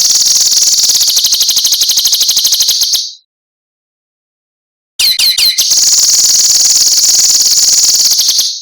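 A songbird's harsh, fast buzzing trill, the kind Indonesian bird-keepers call 'besetan', used as masteran training audio. It lasts about three seconds, then breaks off into silence. After a gap of about two seconds a few quick sliding notes lead into another long trill that cuts off just before the end.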